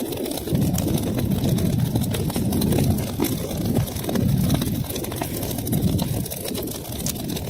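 Wood fire crackling in a fireplace: frequent small sharp pops and snaps over a low rumble of burning flames that swells and fades.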